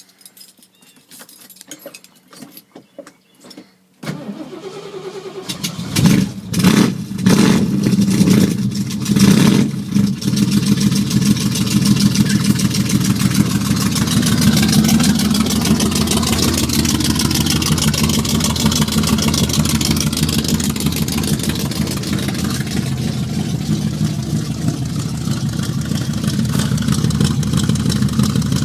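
1972 Ford Mustang's 302 V8 cold-started through side pipes after sitting a while: a few quiet knocks, then it cranks about four seconds in and fires. It is blipped loudly several times in its first seconds of running, then settles into a steady fast cold idle.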